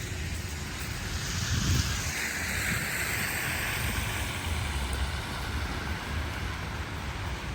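Wind rumbling on the microphone over a steady hiss of outdoor street noise, the hiss swelling for a few seconds about two seconds in.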